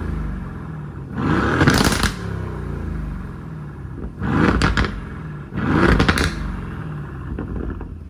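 Mercedes-AMG M177 twin-turbo V8 of a 2019 Aston Martin Vantage idling and revved in four short throttle blips, the last one smaller. The exhaust runs with its secondary catalytic converters replaced by cat-delete pipes.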